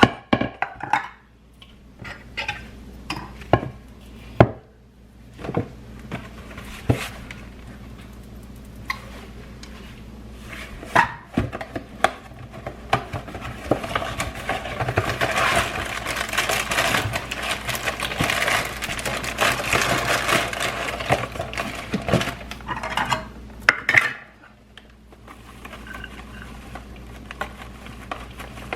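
Hand-washing dishes at a kitchen sink: dishes and cutlery clink and knock against each other. A tap runs steadily through the middle stretch and is shut off abruptly near the end.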